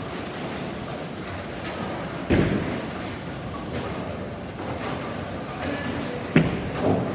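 Bowling alley lanes: the steady rumble of bowling balls rolling down the lanes. A heavy thud comes about two seconds in, and a sharp knock followed by a lighter thud comes near the end.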